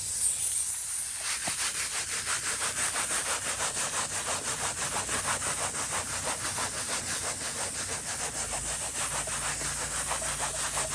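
Stiff-bristled steamer brush tip scrubbing grease off a car surface in rapid back-and-forth strokes, over a steady high hiss of steam.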